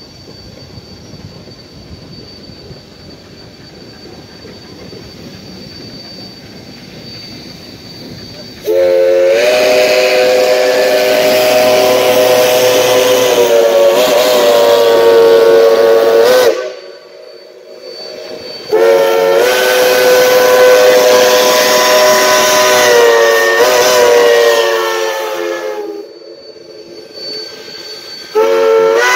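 Steam locomotive whistle sounding two long blasts, with a third starting near the end. Before the blasts, the low rumble of the geared steam locomotive working grows louder.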